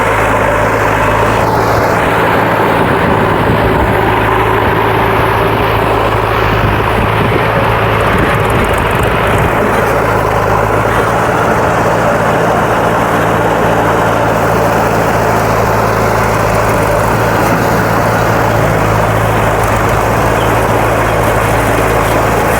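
Heavy diesel engine running loud and steady at constant speed, with no revving or change in pitch.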